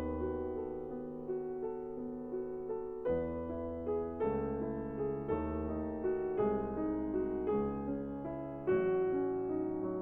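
Soft, slow piano music: single notes and chords struck about once a second and left to ring.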